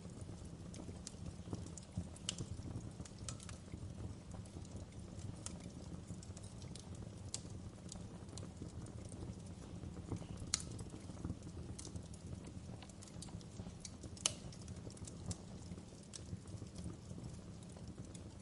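Wood fire crackling in a fireplace: scattered sharp pops and snaps of burning logs over a low steady rumble, with two louder pops about ten and fourteen seconds in.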